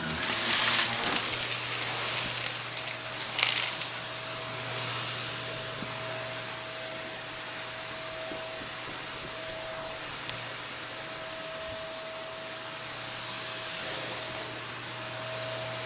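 Vacuum cleaner running steadily with a constant motor hum and whine, crunching and crackling loudly as it sucks up dry debris in the first second or so and again about three seconds in.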